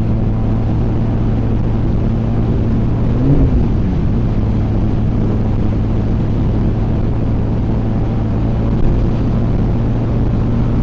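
Honda Rebel 250's parallel-twin engine held at steady high revs near its top speed, with wind noise rushing over it. Its pitch briefly rises and falls about three seconds in.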